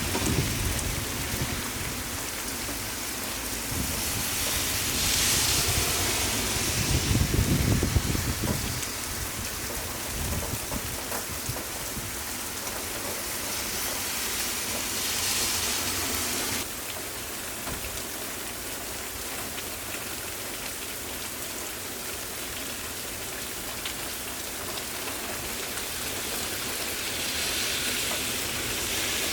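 Steady hiss of rain, with a deep rumble that swells to its loudest about eight seconds in. The level drops suddenly a little past the middle.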